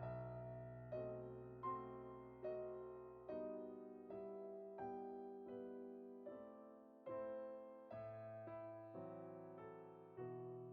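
Soft, slow piano music: single notes and chords struck about once a second, each left to ring and fade.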